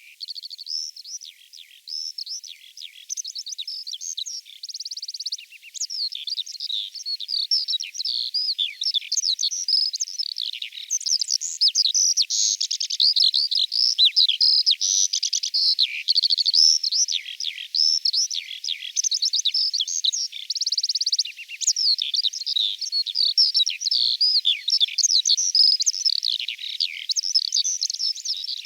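Eurasian skylark singing: a long unbroken stream of rapid high chirps and warbles, broken now and then by short buzzy trills.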